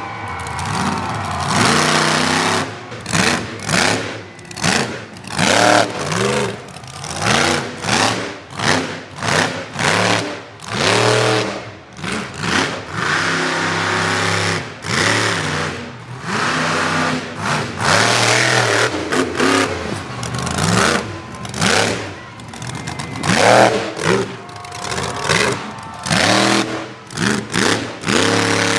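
Monster truck engine revving hard in rapid, repeated throttle bursts, its pitch climbing and dropping again and again.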